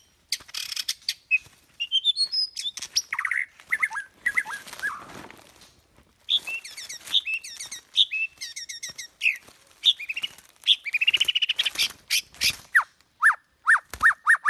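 Bird song: a busy, varied run of chirps, whistles and quick trills, with short pauses.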